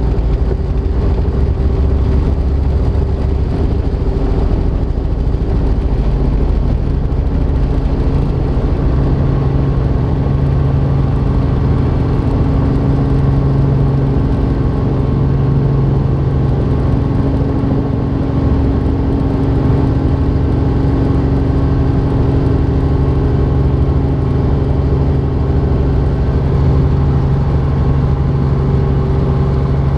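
Robinson R44 Raven II helicopter in flight, its six-cylinder Lycoming IO-540 piston engine and rotors running steadily.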